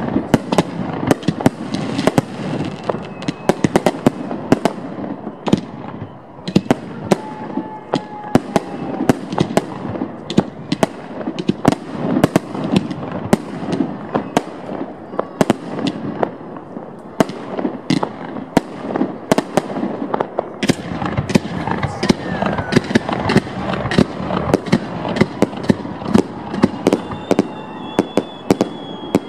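Fireworks bursting at close range: a continuous barrage of aerial shells, sharp bangs coming several a second over a steady crackle.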